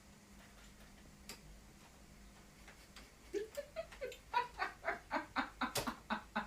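A person laughing in a quick run of short bursts, about four a second, starting about three seconds in after a quiet stretch with a single click.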